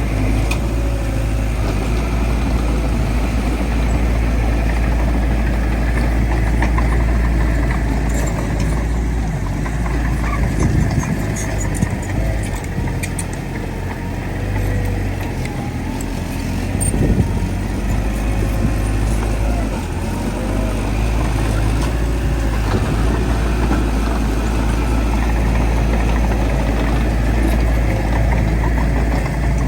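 Heavy earthmoving machinery's diesel engine running steadily with a deep low rumble, easing slightly around the middle, with a few faint clicks and clanks over it.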